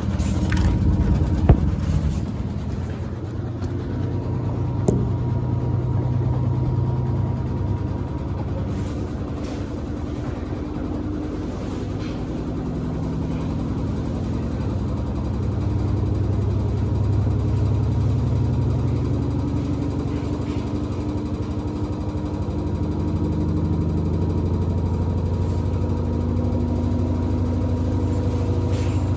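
Samsung WD70T4047CE washing machine running a spin with two pairs of sneakers in the drum: a steady hum that swells and eases, with two sharp knocks about one and a half and five seconds in. The shoe load makes the machine jump.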